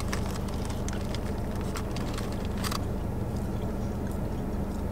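Biting into and chewing a crispy fried chicken sandwich: a string of small crunchy clicks over the first three seconds, over a steady low hum.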